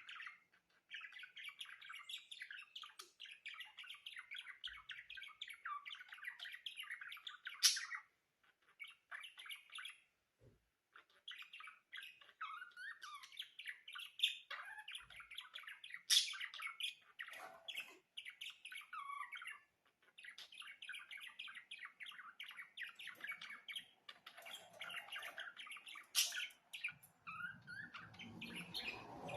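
Budgerigars warbling: a fast, continuous chatter of chirps and clicks broken by brief pauses, with three sharper, louder calls standing out.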